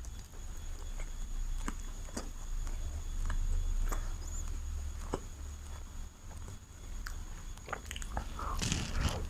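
Close-miked chewing of chicken biryani: scattered wet mouth clicks and smacks, with a denser, louder bout of chewing near the end.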